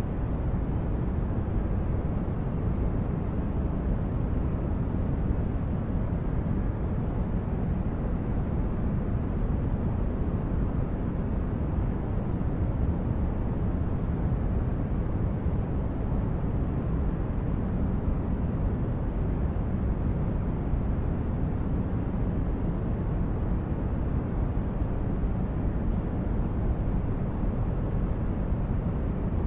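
Synthesized sci-fi spaceship-interior ambience: a steady, deep rumble of brown noise, heavy in the bass with little treble and no changes.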